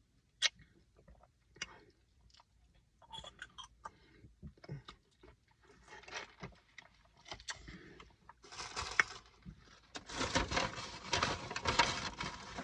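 A person eating close to the microphone: scattered chewing and crunching, with a denser, louder stretch of crackling over the last few seconds.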